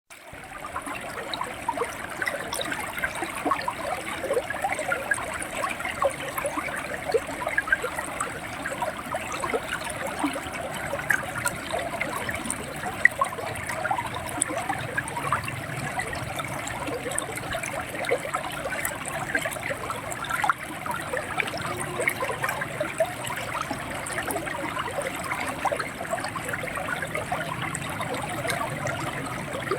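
Running river water gurgling and splashing steadily over stones, with many small splashes.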